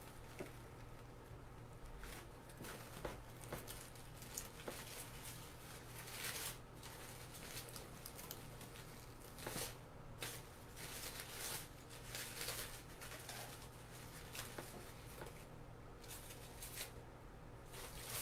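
Faint rustling, crinkling and small irregular clicks of wreath materials being handled and worked into a wreath, over a low steady hum.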